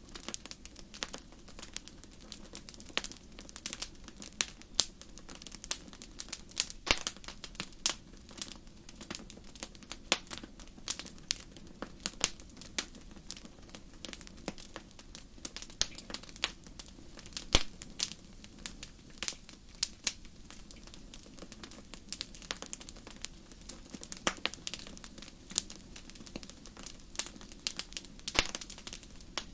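Wood campfire crackling, with irregular sharp pops and snaps several times a second over a faint steady low hiss.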